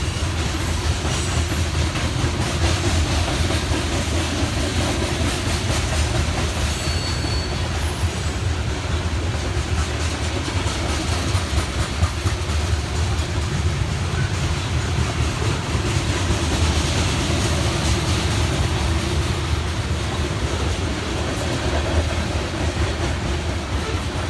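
A BNSF grain train's covered hopper cars rolling past, with a steady rumble of wheels on rail and a continuous clickety-clack of wheels over the rail joints.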